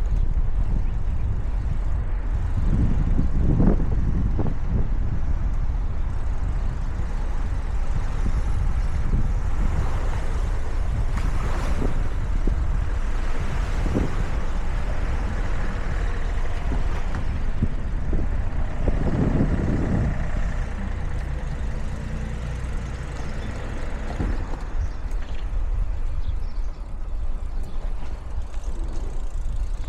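Ride noise from a moving bicycle, wind and road rumble on the microphone: a steady low rumble with louder swells about three seconds in and again near twenty seconds.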